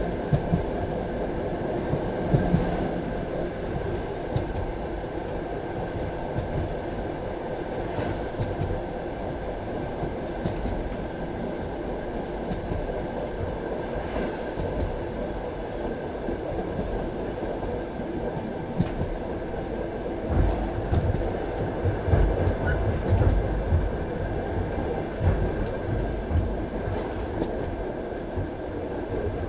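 Passenger railway carriage running along the track, heard from inside: a steady rumble of wheels on rail with scattered clicks over rail joints. The low rumble grows heavier about two-thirds of the way through.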